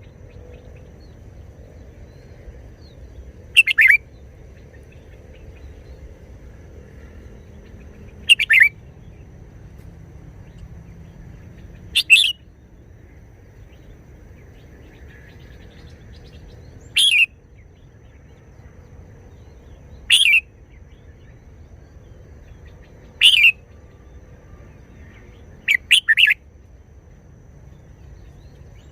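Red-whiskered bulbul singing short, loud, clipped song phrases, one every three to five seconds, the last a quick double, over a faint low background hum.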